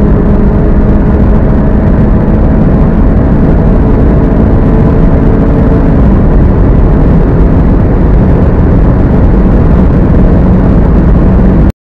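VW Golf GTI's 2.0-litre turbocharged four-cylinder engine under full-throttle acceleration at about 220 to 245 km/h, a steady engine drone over a heavy rush of noise, its pitch holding nearly constant. The sound cuts off suddenly near the end.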